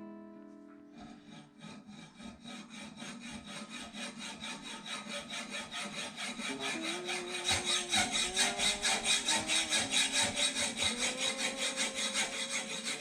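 Hacksaw cutting through an over-long mounting bolt to shorten it, in quick back-and-forth strokes, about four a second, getting louder about seven seconds in.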